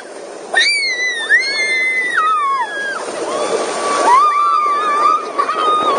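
A child's high-pitched voice squealing in long, wavering cries: one high cry early that falls away, then a lower, steadier held cry near the end.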